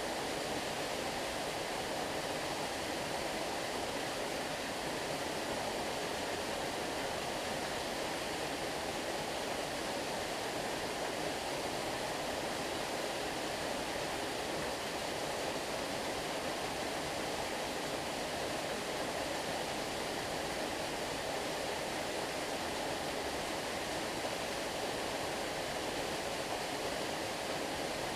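Stream water flowing and rushing in a steady, unbroken wash.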